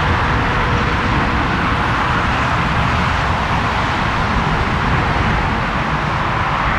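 Airbus A340-300's four CFM56 turbofan engines, a steady, even roar with a deep rumble beneath it.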